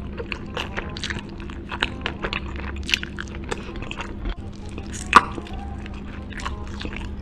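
Close-miked eating of whole chicken: chewing with wet smacks and many small crackles, and one sharp click about five seconds in.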